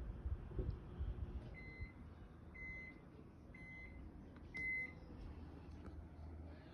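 Four short electronic beeps, about one a second, the last one the loudest, over a low rumbling background noise.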